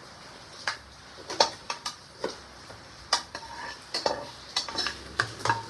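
A metal spoon clinking and scraping against a metal cooking pot while stirring, a dozen or so irregular sharp knocks, some with a short metallic ring.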